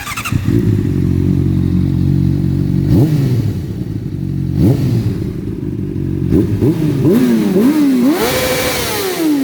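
A 2012 Honda CBR600RR's inline-four engine with a full Akrapovic exhaust system starts up and settles into idle. It is blipped twice, then revved in a quick series of rising and falling revs; the last rev is held higher before falling away. The sound echoes in a tunnel.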